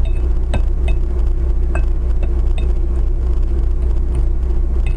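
Steady low rumble of a car driving, road and engine noise heard from inside the cabin, with a constant hum and a few scattered faint clicks.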